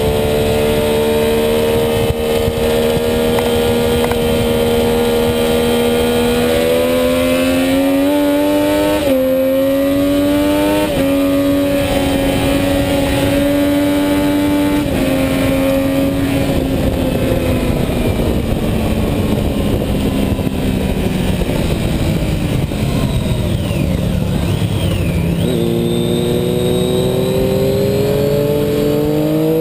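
Sport motorcycle engine at high revs heard from onboard, with heavy wind rush. Its pitch climbs slowly, steps through two quick upshifts about nine and eleven seconds in, falls away steadily as the bike slows, then jumps and climbs again as it accelerates hard near the end.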